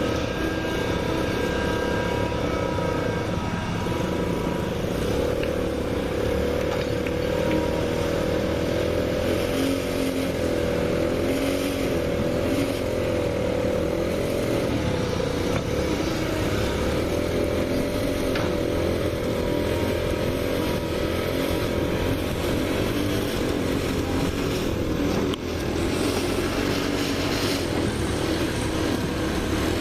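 Small petrol engine of a motorised hoist winch running steadily, its pitch wavering slightly, with a brief drop in level about 25 seconds in.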